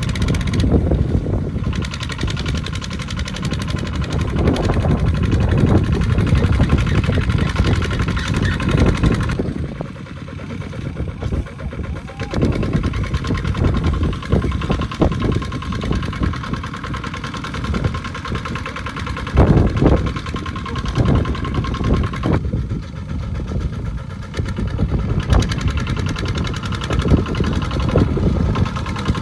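Small farm tractor engine running steadily. Its sound shifts in character about a third of the way through, and again twice later on.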